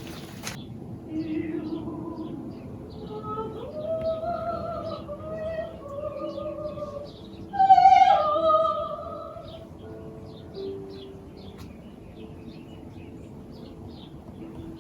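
Slow music led by a woman singing long held notes, the loudest and wavering note about eight seconds in, with faint bird chirps behind it.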